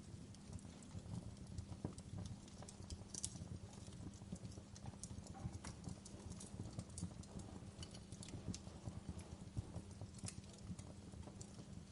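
Wood fire burning in a fireplace: logs crackling with many irregular sharp pops over a steady low rumble.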